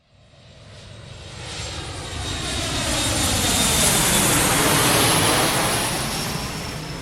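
Fixed-wing aircraft flying over: the engine noise builds out of silence to a peak about four to five seconds in, then starts to fade as it passes, with a thin high whine riding over the rush.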